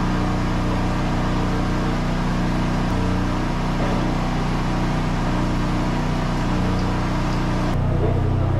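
Steady machine hum from a running motor, a low drone that shifts slightly about three seconds in and again near the end.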